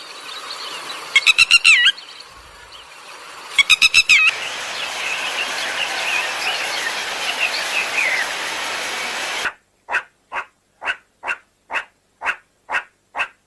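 Birds calling in a few spliced clips: two short rapid trilled calls, then scattered chirping over a steady hiss, then, after a sudden cut, a run of short, evenly spaced calls about twice a second.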